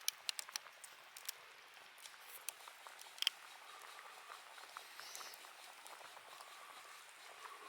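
Wood campfire crackling quietly: a faint hiss with scattered, irregular sharp pops, several in the first second and a louder one about three seconds in.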